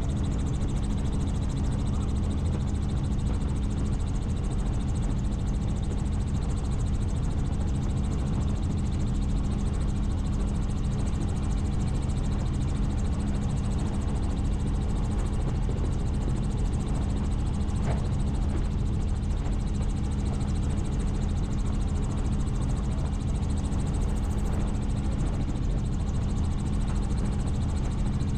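Helicopter in flight: a steady drone of rotor and engine with a constant low hum.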